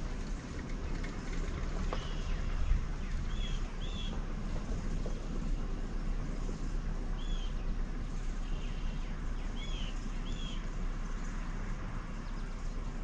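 A bird giving short chirps, mostly in pairs, several times over a steady low background noise.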